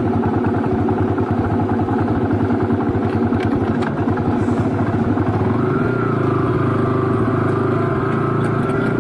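Yamaha Virago 250's air-cooled V-twin engine running at idle with a steady pulsing beat. About halfway through, the beat turns smoother and slightly higher as the revs come up a little.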